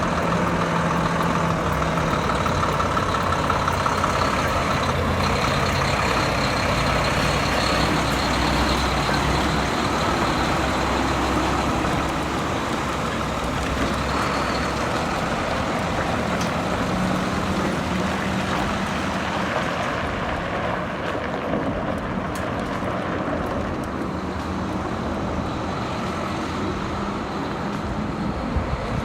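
Heavy engine-driven machinery running steadily, with a thin steady whine above the engine noise; the sound eases off a little about halfway through.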